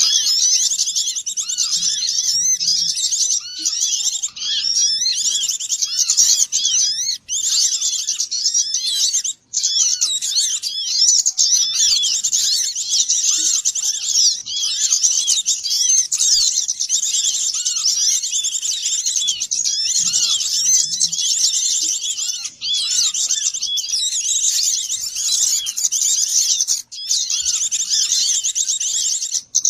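Bird-lure recording: a dense chorus of many small songbirds chirping and twittering over one another without pause, broken by a few very short gaps.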